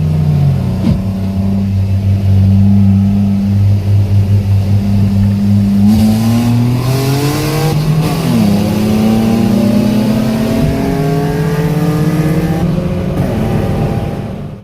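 Car engine pulled hard at full throttle from a roll, its pitch climbing steadily; about eight seconds in the pitch drops sharply at an upshift and then climbs again. The sound cuts off abruptly at the end.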